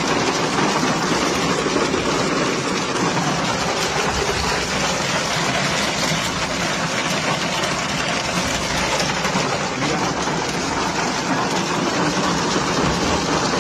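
Steady, loud rushing noise of fast-moving floodwater, even and unbroken.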